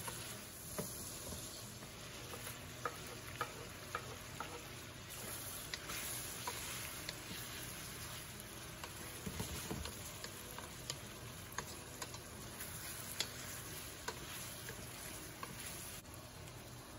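Pork belly cubes and chopped onion sizzling in oil in a wok while a wooden spatula stirs them, with irregular sharp clicks of the spatula tapping and scraping against the pan.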